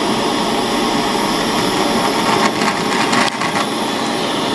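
Soldering torch flame hissing steadily as it heats the bridge of a metal eyeglass frame while the silver solder melts into the joint, with a couple of small clicks near the middle.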